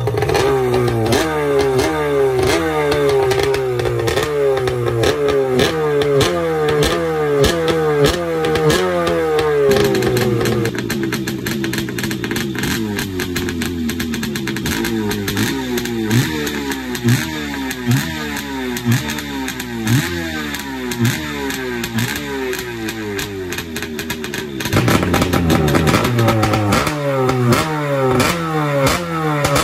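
Kawasaki 650 X2 two-stroke 650cc engine being revved in repeated throttle blips, its pitch rising and falling back about once or twice a second. The tone changes abruptly twice.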